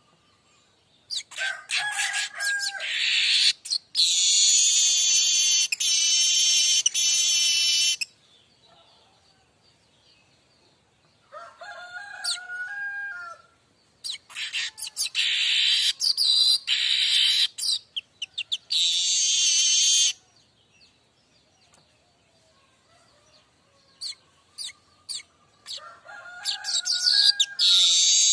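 Manyar kembang weaver singing in four bouts with short pauses between. Each bout starts with a few lower chattering notes and runs into a long, loud, high buzzing and hissing trill, the 'mbeset' song.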